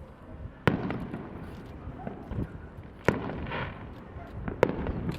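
Fireworks shells bursting in the sky: three loud bangs, about a second in, about three seconds in and near the end, with smaller pops between them and a low rumble throughout.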